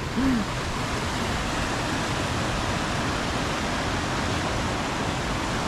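Steady rushing of fast-flowing stream water, an even, unbroken noise.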